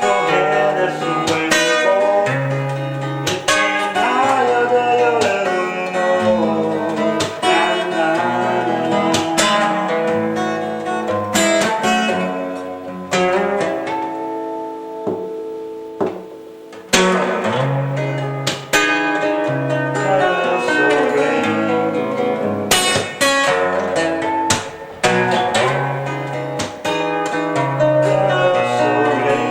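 Acoustic guitar playing an instrumental piece, plucked notes over a bass line; the playing thins out and quietens past the middle, then comes back full.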